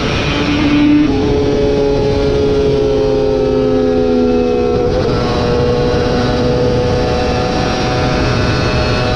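Superbike racing motorcycle engine under load, its pitch dropping about a second in and falling slowly for several seconds as the bike slows. Around the middle the pitch steps up and then holds steady as the bike pulls away again.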